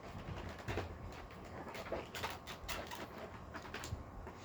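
Faint handling noises: scattered light clicks and knocks, like small objects being moved about and set down.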